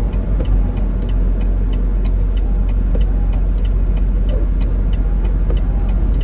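Semi truck's diesel engine running steadily with road noise, heard from inside the cab, with light ticks about once a second.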